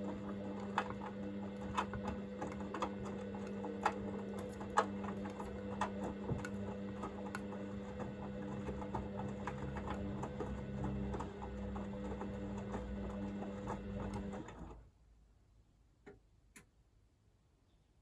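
Hoover VisionDynamic washing machine tumbling its drum during the heated wash stage: a steady motor hum with scattered light clicks from the load turning. The motor stops suddenly about fifteen seconds in and the drum rests, leaving only a couple of faint clicks.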